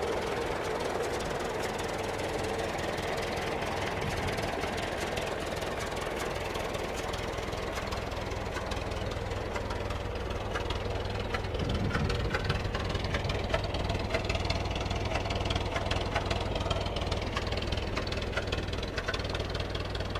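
A Ford Model TT truck's rebuilt four-cylinder Model T engine running steadily and smoothly, purring like a kitten. Its low rumble gets stronger from about eight seconds in, and it grows a little louder from about twelve seconds in.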